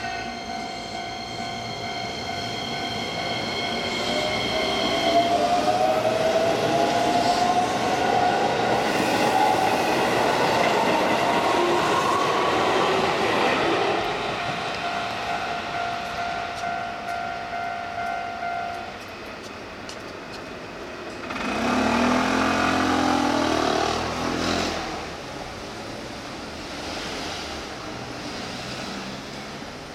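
Keihan 10000 series electric train pulling away from a station, its traction motors giving a whine that rises in pitch over about ten seconds as it picks up speed, then holds steady and fades. About two-thirds of the way through comes a louder, brief sound with a wavering pitch.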